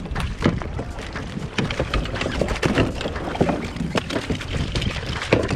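Irregular knocks and thuds of a freshly landed king salmon being handled on a plastic kayak, with wind rumbling on the microphone.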